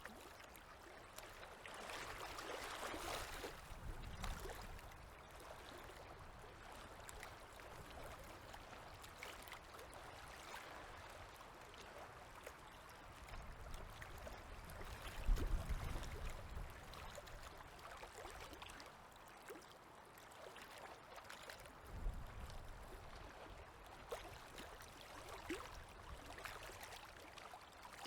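River water lapping and gurgling softly in small waves at the shore, swelling and easing. A low rumble rises about halfway through, and a short low bump comes a few seconds later.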